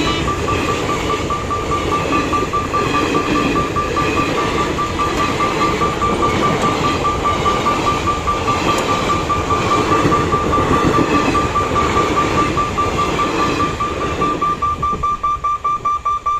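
Express train coaches rumbling past over a level crossing, with a steady, rapidly pulsing high-pitched tone throughout. The rumble fades near the end, leaving the pulsing tone.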